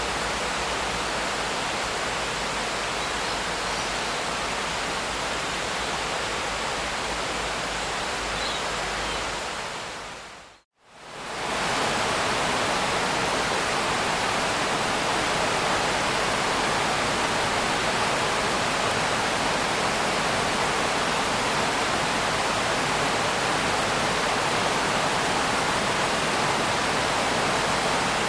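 Steady rain, an even rushing hiss with no separate drops standing out. About ten seconds in it fades out to a moment of silence and fades back in slightly louder.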